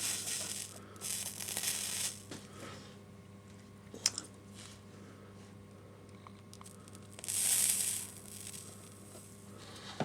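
A soldering iron hissing and sizzling on flux and solder at a rail joint, in two short spells, one at the start and one about three-quarters through, with a sharp click a little after four seconds. A steady low hum runs underneath.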